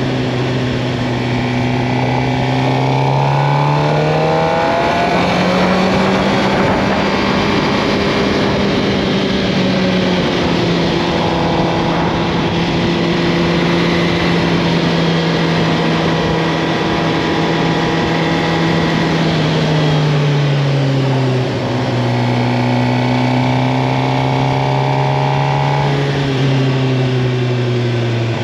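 Suzuki GSX-R 750's inline-four engine pulling the bike along the road. Its note climbs over the first few seconds, holds high and slowly eases, then drops about twenty seconds in and settles at a lower steady pitch, over a constant rushing noise.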